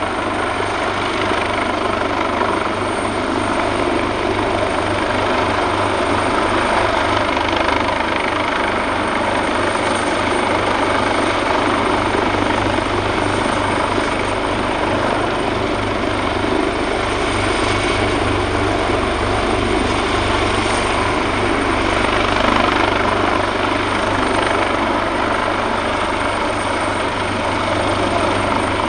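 AgustaWestland AW139 helicopter running steadily, its two Pratt & Whitney Canada PT6C turboshaft engines giving a steady high whine over the rapid beat of its five-bladed main rotor.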